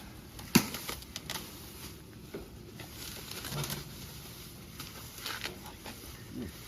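Scattered light knocks and clicks, with one sharp click about half a second in, over a low background hiss.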